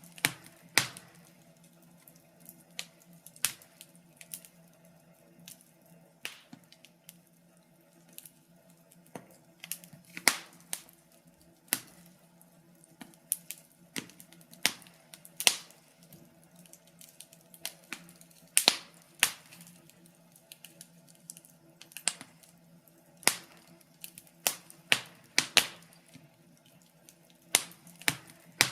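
Wood fire crackling in a fireplace: irregular sharp pops and snaps, some loud, over a low, steady background hum.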